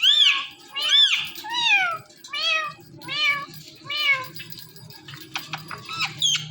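Indian ringneck parrot mimicking a cat's meow: about six meows in quick succession, each rising then falling in pitch and growing fainter. A few short, sharp chirps follow near the end.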